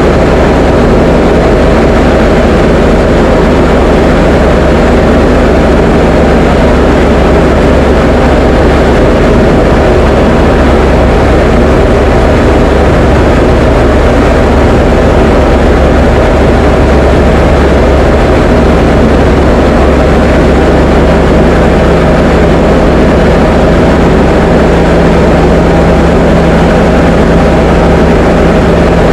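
Diamond DA20 light aircraft's piston engine and propeller droning loudly and steadily in cruise, heard from inside the cockpit.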